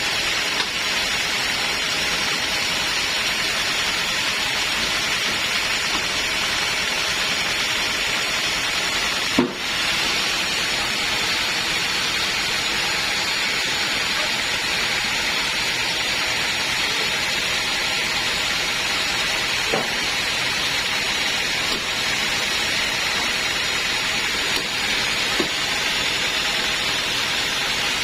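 Sawmill saw cutting teak wood: a steady, even hissing noise with a few brief knocks, the loudest about nine seconds in.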